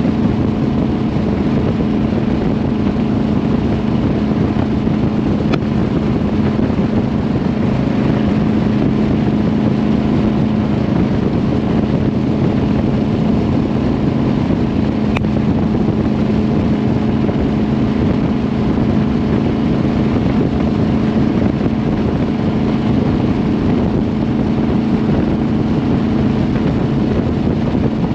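Ford 427 FE side-oiler big-block V8 on Weber carburetors running at a steady cruise in a Cobra replica, its engine note holding one steady pitch throughout.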